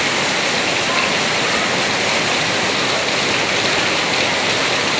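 Heavy rain pouring down in a storm, a steady loud downpour.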